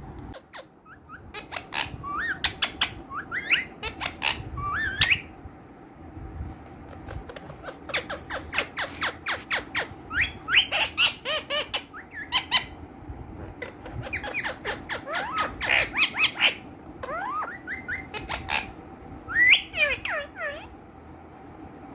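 Ringneck parakeets squawking in bursts of sharp, rapid calls with quick rising and falling chirps, in four spells separated by short pauses. A faint steady hum runs underneath.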